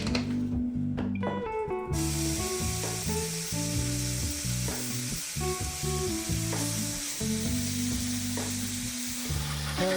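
Food sizzling in a hot frying pan, starting abruptly about two seconds in, over background music.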